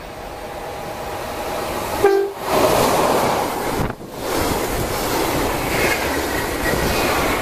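A regional passenger train, a red electric locomotive hauling coaches, approaches and passes close by at speed. The locomotive gives a short horn blast about two seconds in, and then comes the loud rushing noise of the coaches rolling past.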